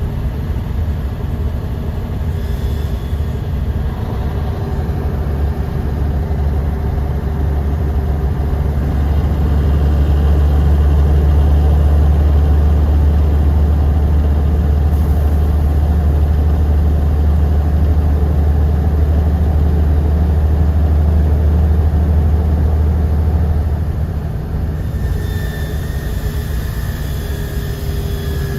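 Bus engine running, heard from inside the passenger cabin as a steady low rumble. It swells louder about a third of the way in and eases off again shortly before the end.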